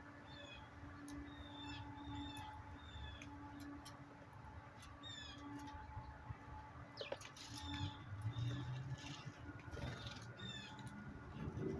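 Small backyard birds calling with short chirps repeated every second or so, over a faint steady hum.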